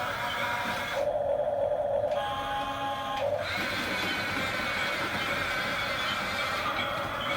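Small electric motors whirring through the plastic gearboxes of a radio-controlled toy construction vehicle, the pitch shifting about a second in and settling again after about three seconds.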